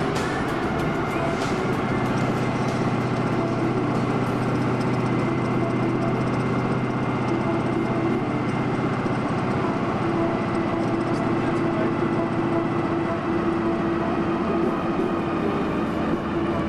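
A car engine idling steadily with a constant low hum.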